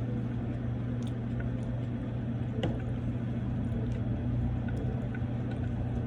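Eating sounds at a restaurant table over a steady low background hum: a few light clicks of a spoon or chopsticks against a pho bowl, the sharpest about two and a half seconds in.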